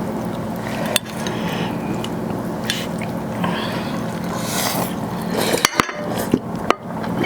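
Close-up eating sounds of a meal of chicken and rice: chewing and mouth noises, with a few sharp clicks of a plate or utensil, one about a second in and several near the end.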